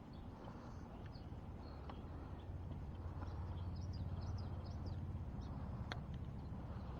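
A small bird chirping a quick run of short high notes over a low outdoor rumble, with a few light clicks, one sharper near the end.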